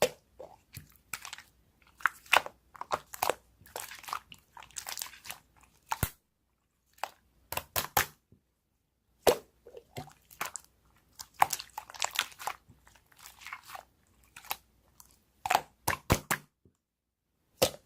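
Slime being worked by hand, giving sharp pops and crackly, crunching squishes in irregular bursts with short pauses between them.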